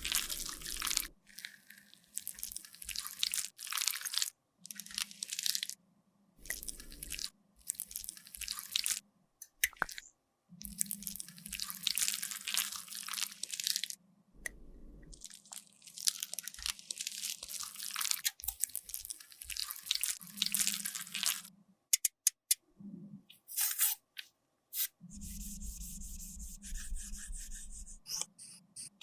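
Makeup product being crushed and worked with a tool: repeated crunchy, scraping strokes of a second or two each, with short pauses between. Near the end comes a steadier stretch of a few seconds.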